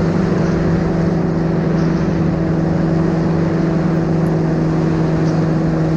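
Paratrike's engine and propeller running at a steady, unchanging drone in level flight.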